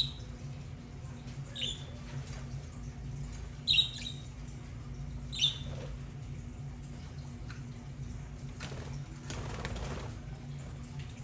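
Budgerigars calling in short, sharp chirps, four loud ones spaced over the first half, with a brief rustling flutter later on and a steady low hum underneath.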